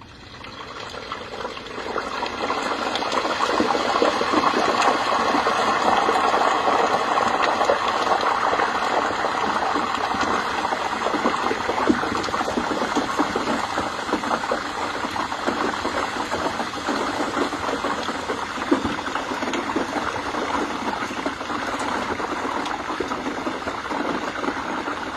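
Hot peanut oil in a turkey fryer boiling and crackling violently as a turkey is lowered in, the moisture in the bird flashing to steam. The noise swells over the first few seconds and then holds as a steady dense crackle.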